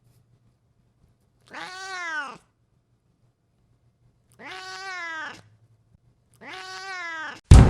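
Kitten meowing three times, each call about a second long, rising and then falling in pitch. A loud sudden hit comes right at the end.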